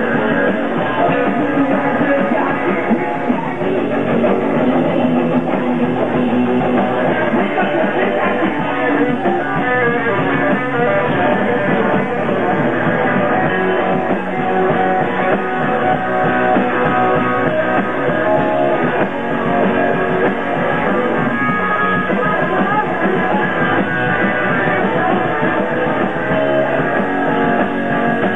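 Live rock band playing an instrumental passage with electric guitar and drum kit, continuous and loud, recorded through a muffled audience recorder.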